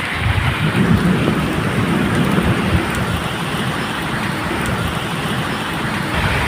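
Steady medium rain falling, with a low rumble of thunder underneath and the odd drip ticking through.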